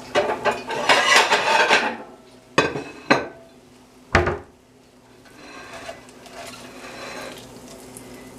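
Dishes and kitchen utensils clattering and scraping as food is served onto a plate, then three sharp separate knocks of utensil on pan or plate.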